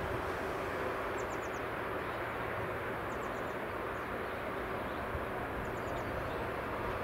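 Steady rushing noise of passing traffic at a railway level crossing. Over it, a small bird gives short high four-note chirps about every two seconds.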